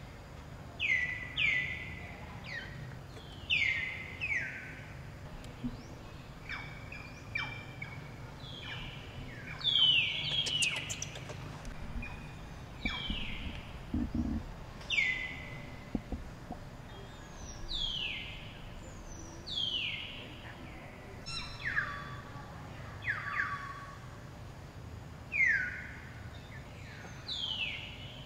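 A bird calling over and over: short, high chirps that slide downward, one every second or two.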